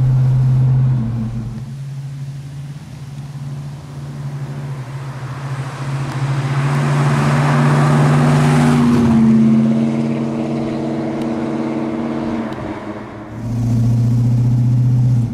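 1969 Pontiac GTO's 400 cubic inch V8 running as the car drives, a steady low drone heard from the driver's seat. Midway the car comes up and passes by, its engine and tyre noise swelling to a peak and then falling away, before the steady in-car drone returns near the end.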